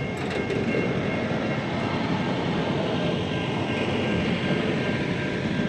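Steady rumble of a long freight train's wagons rolling past at a level crossing.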